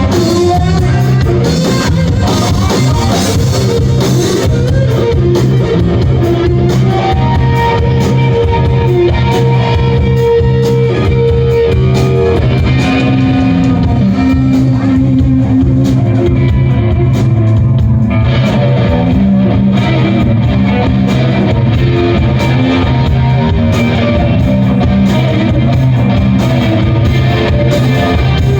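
Rock band playing live, with electric guitar over bass and drums and little or no singing. It is recorded on a mobile phone, loud and low in quality.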